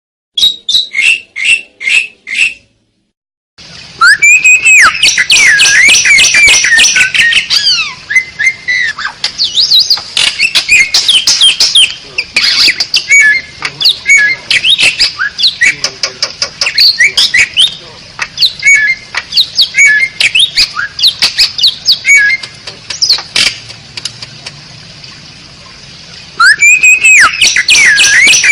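Asian pied starling (jalak suren) calling and singing: a run of about five short harsh calls, a brief gap, then a long stretch of loud chattering song full of whistled notes sliding up and down. The song drops off for a few seconds about three-quarters of the way in, then comes back loud near the end.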